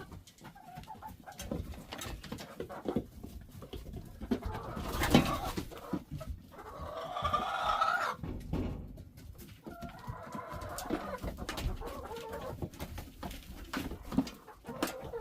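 Backyard chickens clucking, with scattered knocks and clicks throughout.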